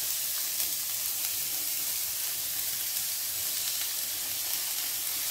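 Chopped onions sizzling steadily in hot cooking oil in a frying pan.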